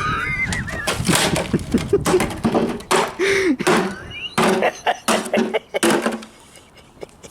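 A fast, irregular run of loud knocks and clatter, with short squeaky, wavering pitched cries between the hits; it dies away near the end.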